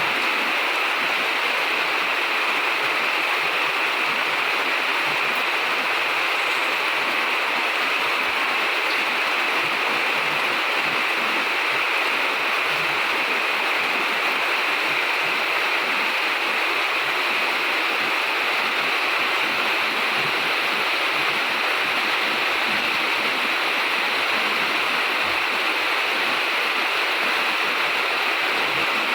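Rain falling steadily, a constant even hiss that does not let up.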